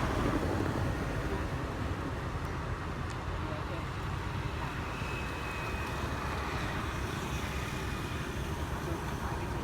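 B-52 bomber's jet engines, a steady, heavy rumble with hiss, holding an even level throughout.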